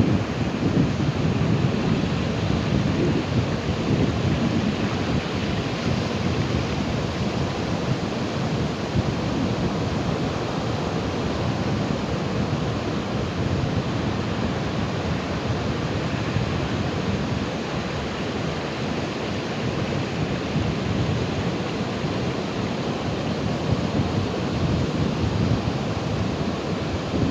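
Ocean waves: a continuous wash of surf with a low rumble that swells slightly near the start and again near the end.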